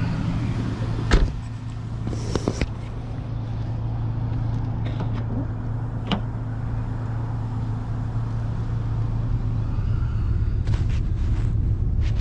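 Vehicle engine idling with a steady low hum, with a few clicks and knocks over it, the loudest about a second in.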